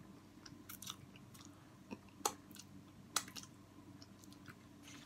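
Close-miked chewing of food, quiet and wet, broken by a few sharp mouth clicks, the loudest about two and three seconds in. A faint steady hum runs underneath.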